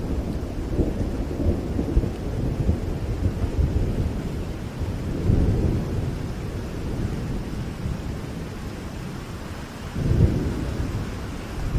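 Rain falling steadily with thunder rumbling deep underneath, swelling several times, the strongest roll coming about ten seconds in.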